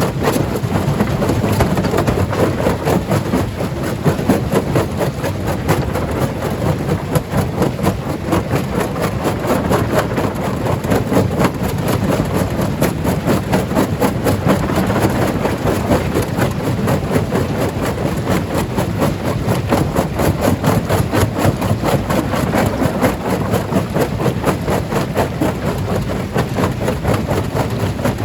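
Stone crusher running with a continuous, dense clatter of rapid knocks over the steady drone of heavy machinery.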